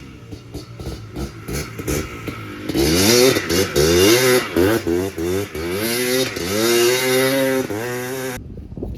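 Yamaha Blaster's single-cylinder two-stroke engine popping unevenly at low revs, then revved repeatedly, the pitch sweeping up and dropping back several times. It cuts off suddenly near the end.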